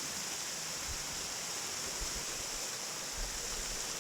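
Rushing waterfall water, a steady hiss, with a few short low thuds about one, two and three seconds in.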